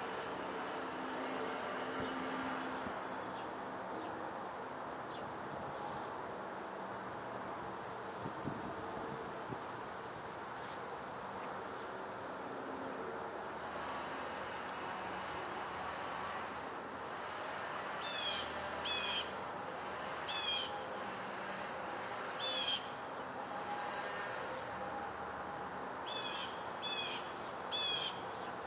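Outdoor ambience with a steady low background rush and a faint steady high tone. About two-thirds of the way in, a bird starts giving short calls, each a quick run of scratchy notes, repeated several times in small groups; these are the loudest sounds.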